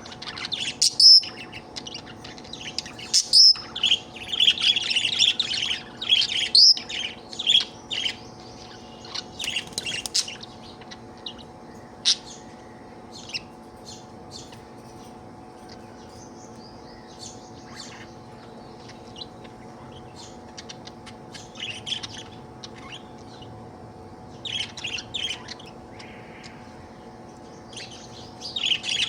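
Budgerigar chirping and chattering in quick trills, busiest in the first ten seconds, then scattered chirps with pauses and short bursts again near the end. A faint steady hum runs underneath.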